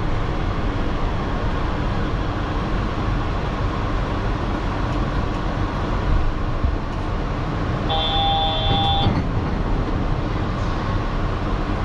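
Yurikamome rubber-tyred automated train running into a station and coming to a stop, with steady running and in-car noise. A short electronic tone of about a second sounds about eight seconds in.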